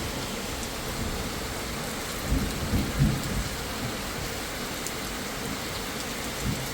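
Steady rain hissing down, with a few low thumps a couple of seconds in.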